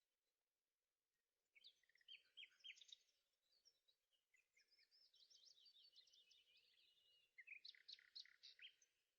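Faint songbird singing: several phrases of quick, high chirps and fast sweeping notes, beginning about a second and a half in.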